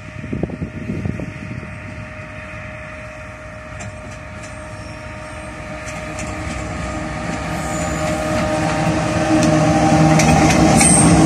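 Twin RGE-24 diesel-electric locomotives hauling a passenger train, approaching and passing: engine hum and rail noise grow steadily louder, loudest as the locomotives go by near the end.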